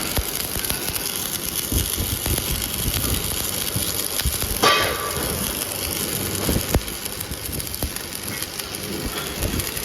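Metal-working shop machinery running steadily, with scattered knocks and a sharper ringing clang about four and a half seconds in.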